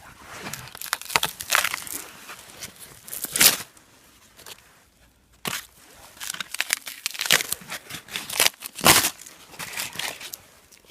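Birch bark being peeled and torn by hand: a series of irregular ripping and crackling tears.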